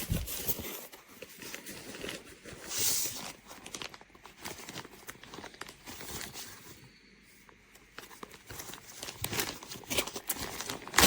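Plastic rain poncho being handled and folded, its thin waterproof sheeting crinkling and rustling in irregular bursts, with a quieter stretch a little past the middle.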